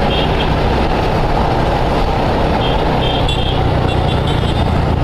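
Motorcycle engine running steadily at cruising speed, with rushing wind on the rider's helmet-mounted microphone.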